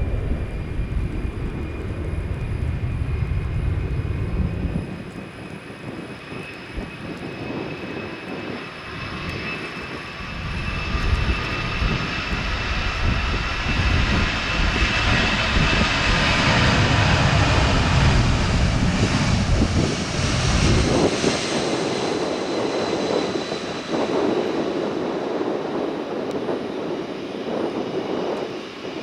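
Jet airliner passing, its engine whine in several pitches slowly falling and building to its loudest about two thirds of the way through, over a low rumble that drops away shortly after.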